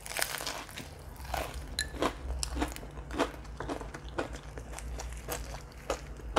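A person biting into and chewing a crisp deep-fried shrimp and sweet potato fritter wrapped in lettuce, with many irregular, crisp crunches.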